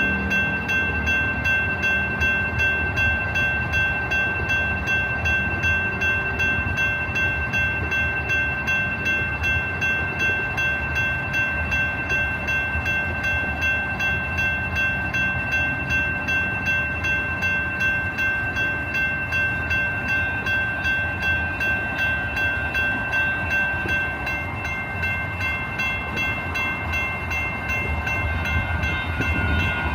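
Light rail train sounds: several steady high ringing tones whose level pulses about twice a second, over a low rumble that grows louder near the end.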